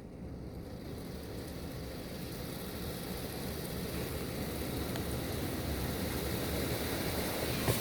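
Water spray from a tunnel car wash's arches rushing and pattering on the car body, heard from inside the cabin, growing gradually louder.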